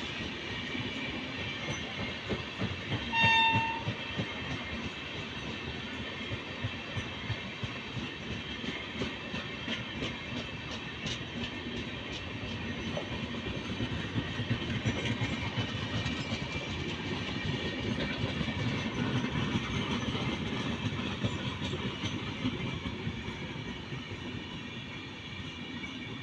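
Indian Railways express train running past, its wheels clattering steadily over the rail joints, growing louder about two-thirds of the way through. A short horn blast sounds about three seconds in.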